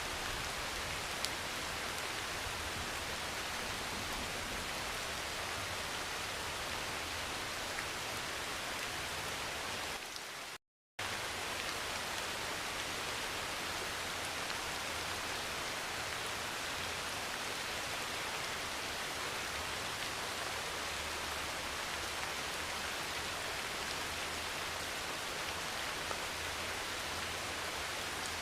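Steady heavy rain pouring on a metal roof. The sound cuts out to silence for a moment about ten seconds in, then resumes unchanged.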